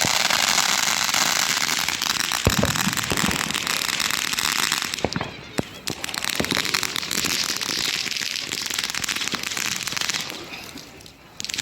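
Fireworks going off: a dense crackling with many sharp bangs and pops. The crackle thins out about five seconds in and again shortly before the end, then picks up again.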